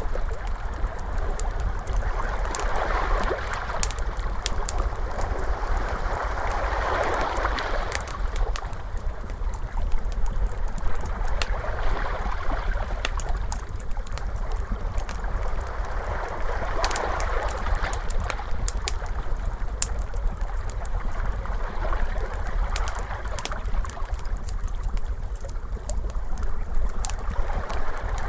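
Wood fire crackling with many sharp, irregular pops, over ocean waves that swell and fade every several seconds, with a steady low rumble underneath.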